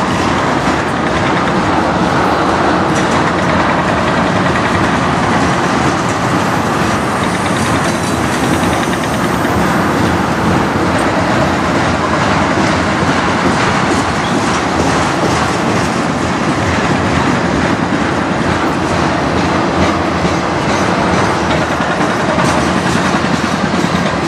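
Tank cars and boxcars of a manifest freight train rolling past, a steady loud rumble of steel wheels on rail with repeated clicks as the wheels cross the rail joints.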